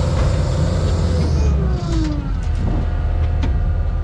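Engine of a bucket loader running steadily, its pitch easing down between one and two seconds in.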